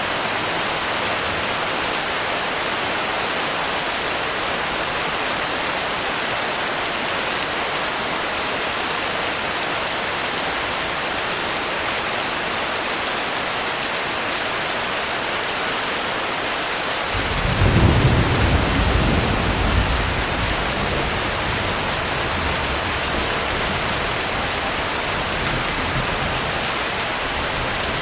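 Steady rain with an even hiss. About two-thirds of the way through, a low roll of thunder rises suddenly and rumbles away over several seconds.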